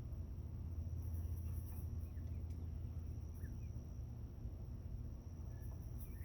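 A few short, faint chirps from young bobwhite quail over a steady high-pitched insect drone and a low rumble.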